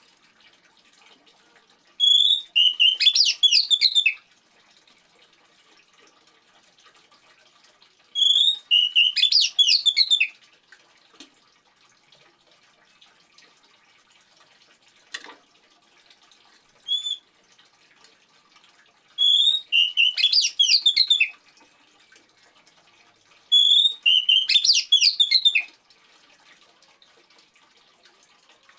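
Oriental magpie-robin (kacer) singing four loud, quick, varied song phrases of about two seconds each, each opening with a whistled note, with a short call in between, over a faint steady trickle of water. There is a single sharp click midway.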